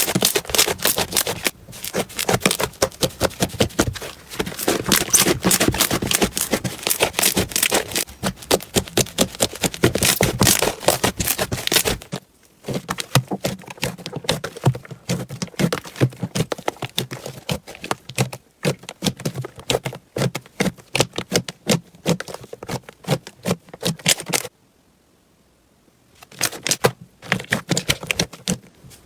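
Slime being squished and worked, giving rapid crackling and popping clicks from air pockets. The clicks are densest in the first half, thin out later, and break off for about a second near the end before starting again.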